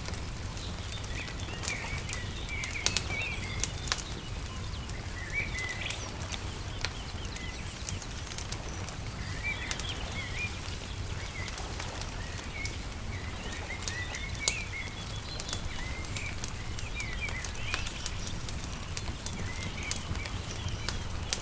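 Wood fire crackling with scattered sharp pops, under frequent short bird chirps and a steady low rumble.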